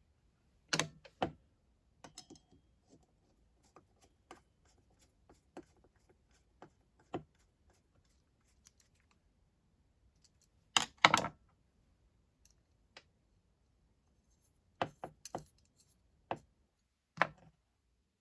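Scattered sharp clicks and taps of small metal carburettor parts and hand tools being handled and set down during reassembly, with a few louder clacks among lighter ticks.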